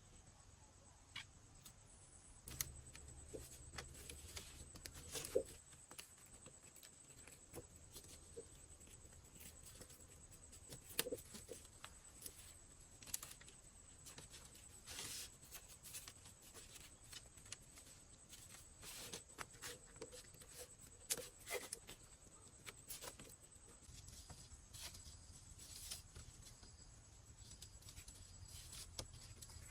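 Faint, scattered light clicks, snaps and rustles of hand work, with a thin steady high tone behind them.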